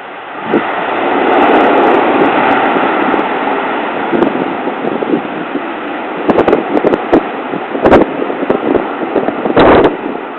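Jet airliner engine noise from an aircraft passing close to the rooftop, swelling about half a second in and slowly easing, heard through a mobile phone's microphone. Wind buffets the microphone with sharp knocks in the second half.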